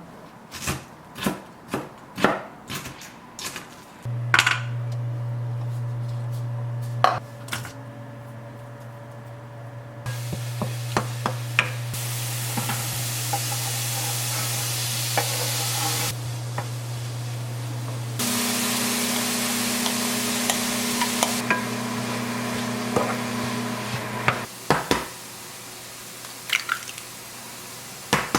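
Home kitchen cooking sounds: a quick run of knocks like chopping on a board, then a steady low hum with long stretches of hissing and scattered clinks of pans and utensils.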